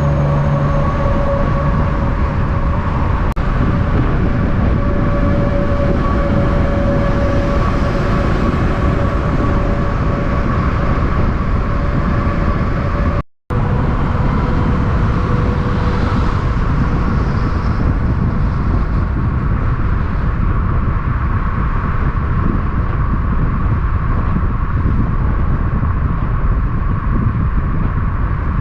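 Semi-trucks passing on a road, a steady loud rush of diesel engines and tyres with a faint steady whine running through it. It drops out for a split second about halfway through.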